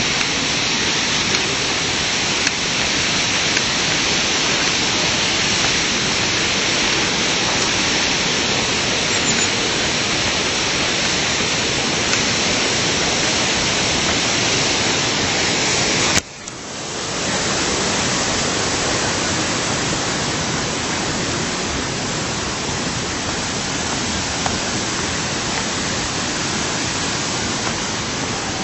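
Steady, loud rush of falling water. About sixteen seconds in there is a click and the sound drops out sharply, then swells back within a second.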